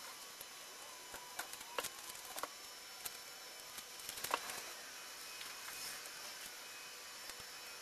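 A few faint, scattered clicks and taps over quiet room hiss, from shear-wall pieces being fitted into a model building.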